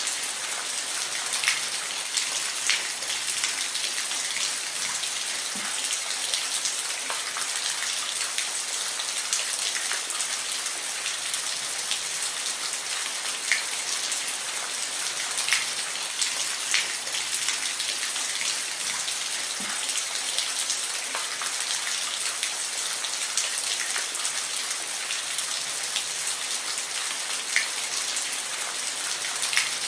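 Steady rain falling, an even hiss with individual drops ticking sharply on a nearby surface here and there.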